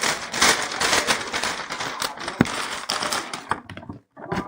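Rapid clicking and crinkling of small items and packaging being handled, thinning out and breaking off near the end.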